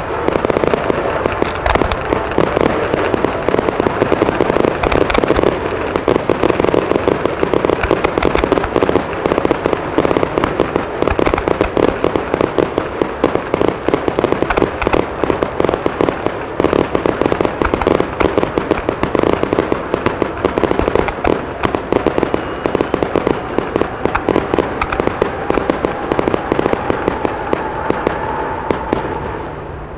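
Fireworks display: a loud, continuous barrage of bangs and crackling with no break, many reports a second.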